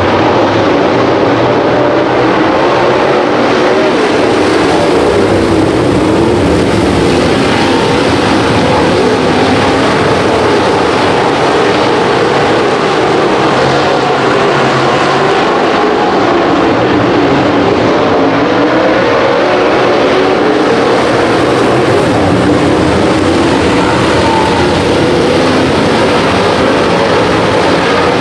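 Race car engines running loud and constant at speed in a feature race on a dirt track, several engines overlapping. Their pitch rises and falls as the cars go around the track.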